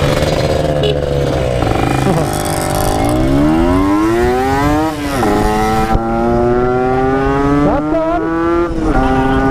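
Yamaha RX-King 135cc two-stroke single's engine and exhaust under way, revving up with rising pitch, dropping at a gear change about five seconds in, then pulling steadily higher again until another shift near the end.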